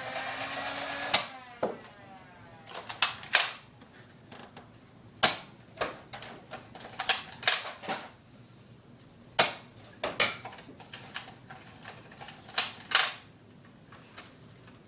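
Nerf foam-dart blasters being fired: about a dozen sharp pops and clacks at irregular intervals, often two in quick succession.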